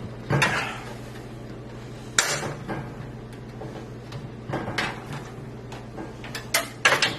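Thin aluminium I/O shield being pushed into the back of a PC case: scattered metallic clicks and rattles, with the loudest snaps late on as it snaps into place, sounding as if it broke though it did not.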